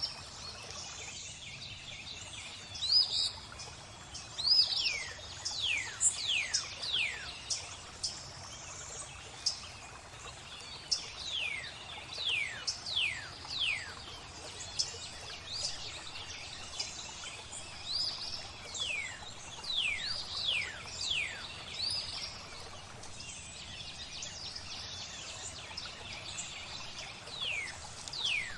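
Birds singing in runs of short whistled notes that each fall steeply in pitch, repeated throughout, over a soft steady hiss of flowing water.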